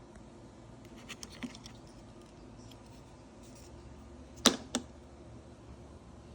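Two sharp clicks about a quarter second apart, a little past the middle, after a few faint ticks: a small electromechanical relay switching.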